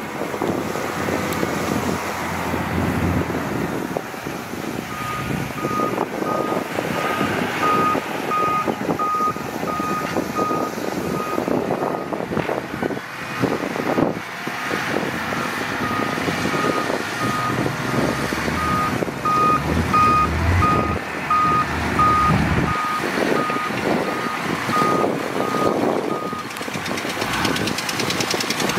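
Heavy earthmoving machinery running, with a reversing alarm beeping about twice a second in two spells and a pause of a few seconds between them.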